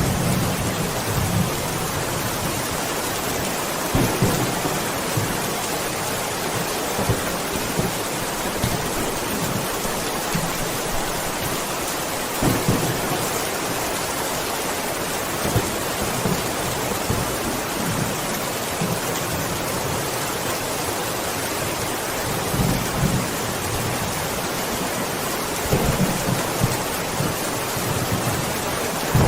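Steady heavy rain with thunder rumbling low several times in the background.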